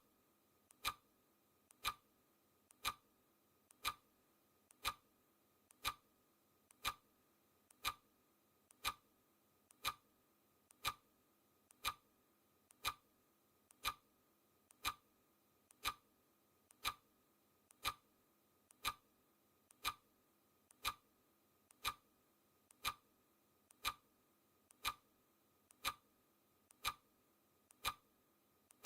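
Clock ticking sound effect of a countdown timer: one sharp tick each second, each with a fainter click just before it, steady and even.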